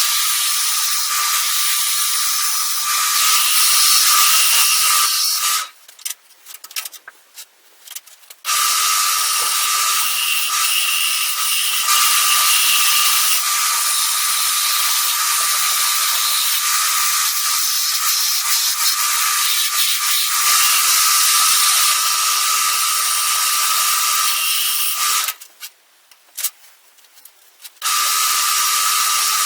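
Wood lathe running steady, a tool cutting the spinning wooden lure blank. It stops abruptly twice for a few seconds, with a few light clicks in the gaps, then runs again.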